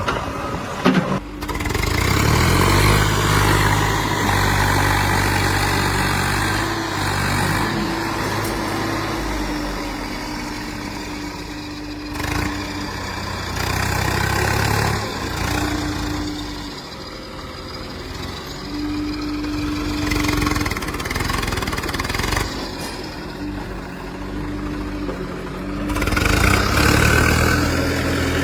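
Heavy diesel engine running and revving up and down, louder about two seconds in and again near the end.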